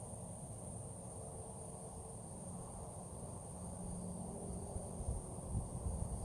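Insects, crickets or the like, buzzing steadily in one high unbroken tone, over a low rumble of outdoor noise on the microphone with a few soft thumps near the end.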